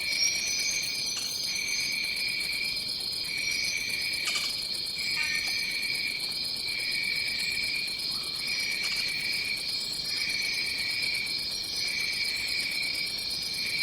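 Dense insect chorus of a tropical forest: steady high-pitched chirring and buzzing, with one trill pulsing on and off about once a second.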